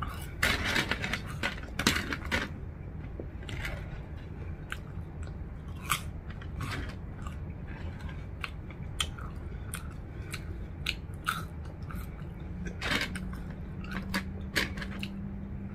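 Close-miked chewing and biting of crisp curly fries, with scattered crunches and wet mouth clicks.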